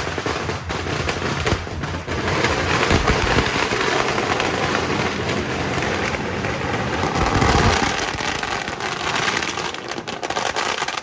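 Firecrackers going off in a dense, continuous crackle of rapid pops.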